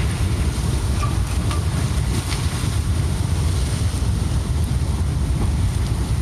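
Mud avalanche (debris flow) rushing down a mountainside: a loud, steady low rumble with rushing noise, with wind buffeting the microphone.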